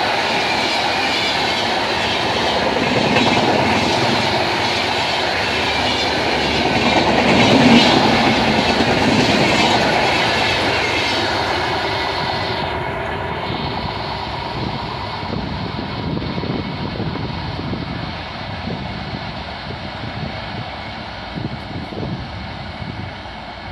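Red LHB passenger coaches of an express train running past at speed, a loud dense rush of wheel and rail noise. About twelve seconds in the last coach passes, the hiss drops away and the train's noise fades as it recedes.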